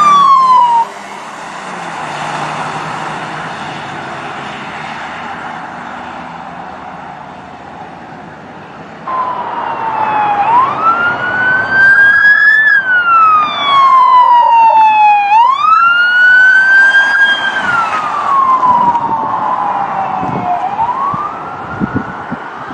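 Police car siren wailing in slow rising and falling sweeps. It cuts off about a second in, leaving a steady rushing noise for several seconds, then starts again about nine seconds in and keeps sweeping up and down.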